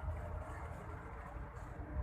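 Steady low rumble of outdoor background noise, with a faint hum over it and no distinct events.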